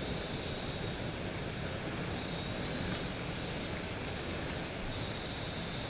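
Typhoon-driven heavy surf surging over and against a breakwater, a steady rushing rumble of waves and wind. A thin high buzz comes and goes about once a second over it.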